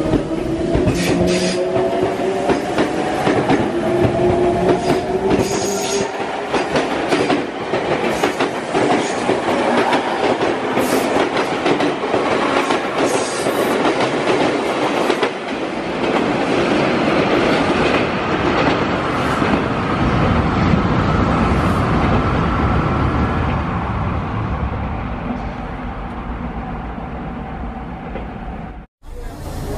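Sotetsu electric commuter train accelerating away from the platform. The traction motor whine rises in pitch over the first few seconds, then gives way to the rumble and clatter of wheels over rail joints, which slowly fades as the train pulls away. The sound cuts out for a moment near the end.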